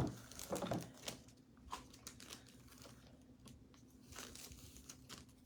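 Faint rustling and crinkling of thin plastic chalk-paste transfer sheets being handled and pulled apart, with scattered light ticks, a little louder in the first second.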